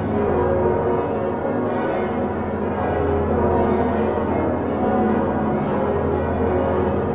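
Swinging bronze church bells of the Utrecht Dom tower ringing together in full peal. They include the great Geryt van Wou bells of 1505, the largest being the 8-tonne Salvator in F-sharp. Many bells swung on straight headstocks with flying clappers strike over one another in a dense, continuous ringing.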